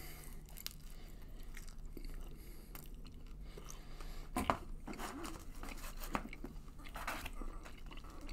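A man biting into and chewing a slice of pizza close to the microphone, its crust crunching between moist chewing sounds, with a sharper click about halfway through.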